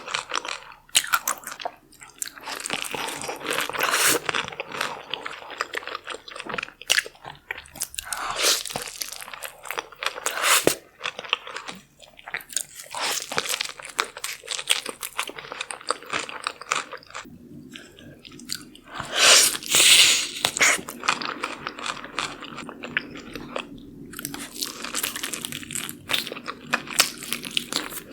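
A person eating close to the microphone: crunching bites and chewing, with dense crackling clicks, loudest about two-thirds of the way through.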